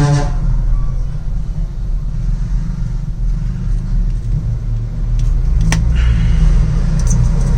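A steady low rumble with a few sharp clicks in the second half.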